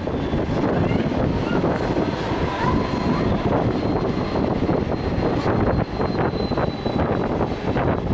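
Mumbai suburban electric local train running at speed: a steady rumble of wheels on the track mixed with rushing air. A faint high squeal sounds over the first half, and rattling clicks come in over the second half as the coach shakes.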